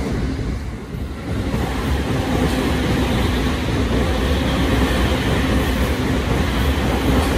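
Electric commuter trains running on the tracks below, a steady rumble of wheels on rail and motors. About a second in the sound dips briefly, then a yellow-striped JR commuter train's running noise carries on steadily as it comes closer.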